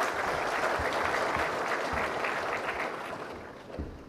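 Audience applauding, a steady clapping that thins out and stops near the end.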